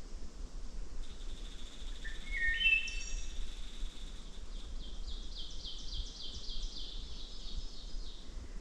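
Woodland birdsong: a few clear whistled notes stepping up in pitch, then a quick run of repeated high chirps that grows louder.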